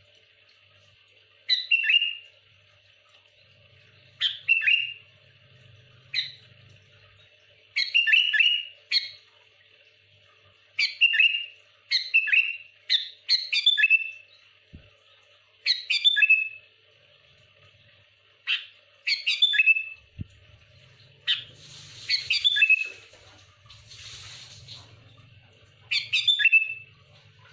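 Sooty-headed bulbul (kutilang) singing: short bursts of quick, clear notes every second or two, with harsher, scratchy calls near the end.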